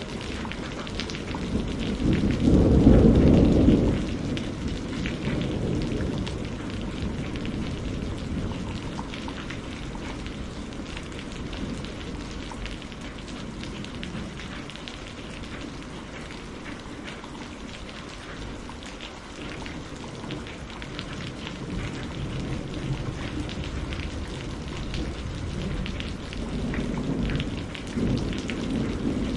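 Steady rain falling, with a low rumble of thunder about two seconds in and a fainter rumble near the end.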